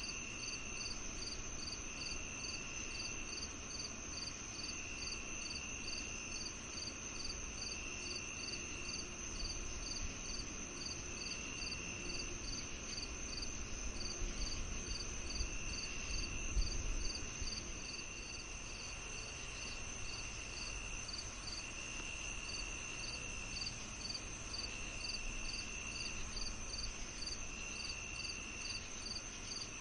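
Crickets chorusing on a summer evening: one steady high trill, another chirping about twice a second, and a lower trill that comes and goes in spells of about a second. A faint low rumble swells briefly around the middle.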